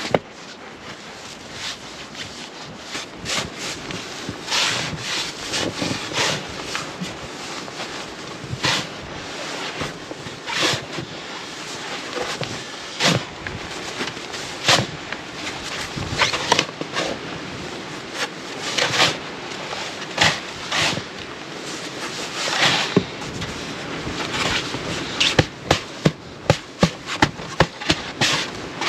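Irregular knocks, cracks and scrapes of wood being handled or worked by hand, over a steady hiss.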